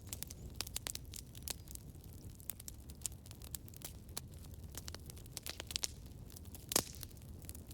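Campfire burning, with irregular crackles and pops of burning wood over a low rumble of flame. One louder pop comes near the end.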